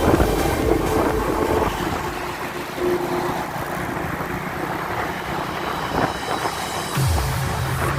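Truck running on a road, a steady rumble of engine and tyres; about seven seconds in, a deeper steady engine note comes in and holds.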